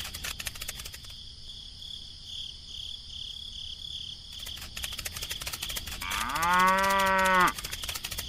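A cow mooing once, a long call of about a second and a half near the end, rising at the start and then held, over a steady high-pitched background.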